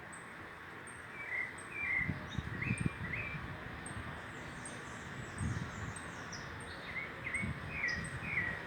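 Birds chirping in short repeated notes, in two clusters, over a steady series of faint high ticks, with a few low rustling thumps.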